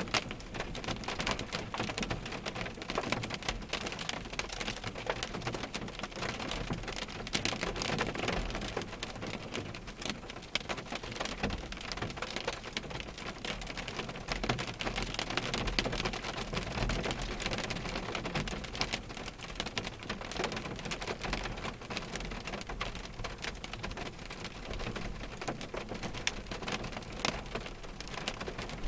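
Rain falling on a parked car's windshield and roof, heard from inside the cabin: a dense, steady patter of drops.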